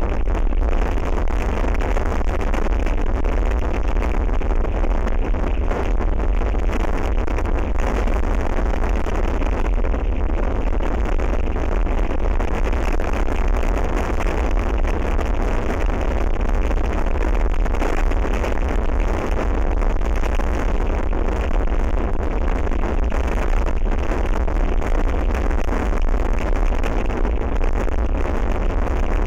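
Very strong south-westerly wind buffeting an outdoor camera microphone: a loud, steady rush with a deep rumble, unbroken throughout.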